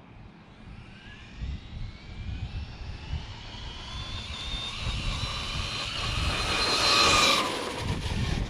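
Losi LMT RC monster truck's Tekin 3300kv brushless motor and drivetrain whining at full throttle on 3S with a 15-tooth pinion. The whine rises steadily in pitch and grows louder as the truck accelerates, is loudest about seven seconds in, then drops away sharply.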